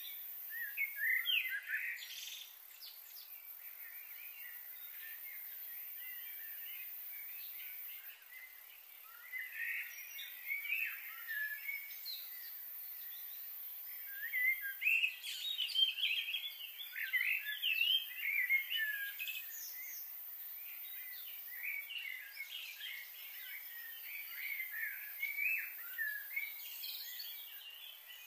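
Several songbirds chirping and calling in quick, overlapping short notes, busiest about halfway through.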